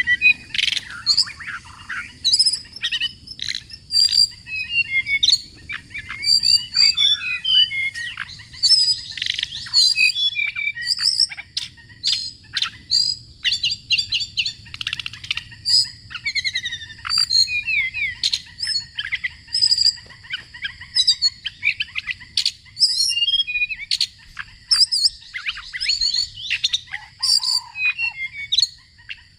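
Small songbirds singing: a dense, unbroken stream of quick chirps and whistled notes, many overlapping.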